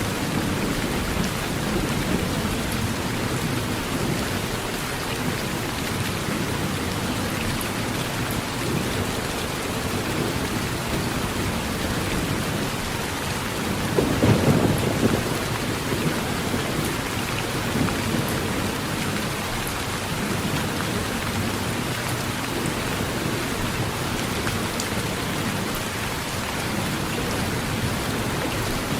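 Heavy rain falling steadily on an old tin roof, with a short roll of thunder about halfway through.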